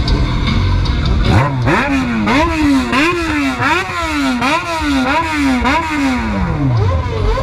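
Motorcycle engine revved hard over and over, its pitch climbing and dropping in quick repeated swings, then winding down in a long falling glide near the end.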